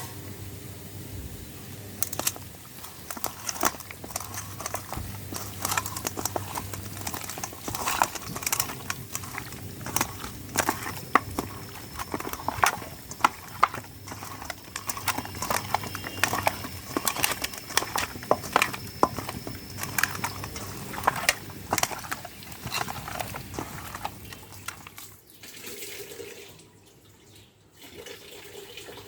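Chicken curry cooking in a pan, stirred with a metal spoon: many irregular clinks and scrapes against the pan over a steady sizzling, thinning out near the end.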